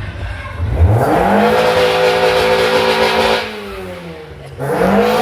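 Car engine revved hard twice: it climbs about a second in, holds high for about two seconds and drops back, then climbs again near the end.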